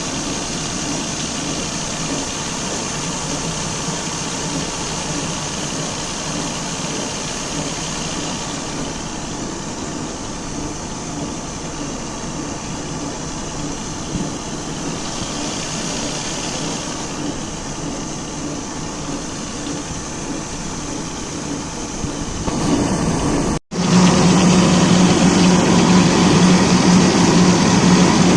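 Combine harvester's diesel engine running steadily at work. About three-quarters of the way through the sound cuts out for an instant, then comes back louder and closer, with a strong low hum.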